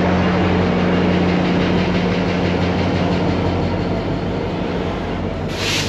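MARC MP36PH-3C diesel locomotive rolling past close by with its engine running in a steady low drone, which fades as bilevel passenger cars follow it past. A short hiss near the end.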